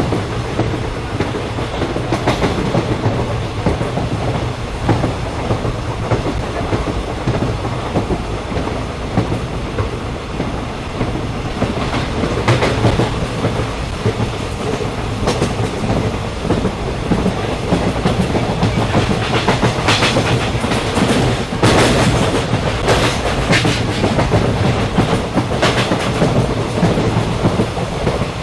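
Passenger train running along the track, heard on board: a steady rumble with the clickety-clack of wheels over rail joints, the clicks coming more often in the second half.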